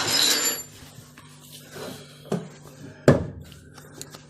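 Hand work fitting the inner clamp on a washing machine's drain hose: a short scraping rattle with a thin metallic ring at the start, then two sharp knocks about a second apart.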